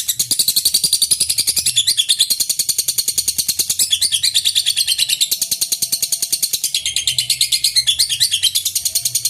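Lovebird ngekek: a long, unbroken stream of rapid, shrill, high-pitched chattering chirps. This is the call used to provoke other birds into answering.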